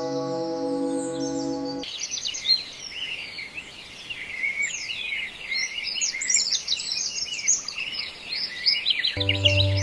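A sustained ringing bell-like tone cuts off about two seconds in, giving way to many birds chirping together. Music comes in near the end.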